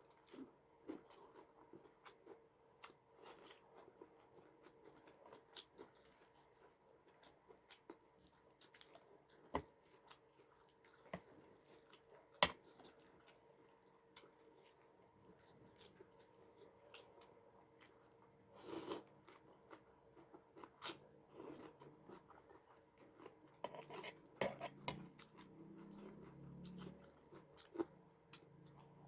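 Close-up eating sounds: irregular chewing and crunching of food, with scattered short clicks and two sharper clicks about ten and twelve seconds in.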